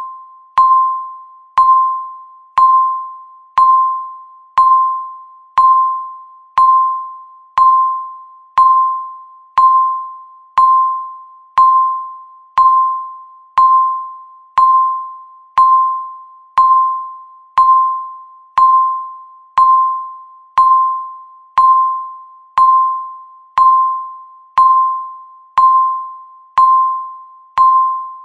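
Countdown timer beep sounding once every second: a single steady-pitched electronic ding that starts sharply and fades away before the next, repeating evenly.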